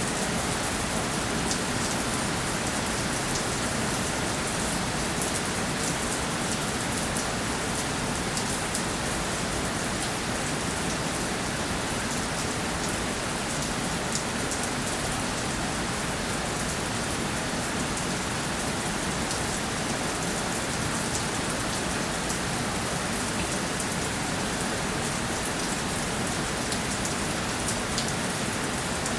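Steady rainfall, a dense even hiss with many individual drops ticking on a surface.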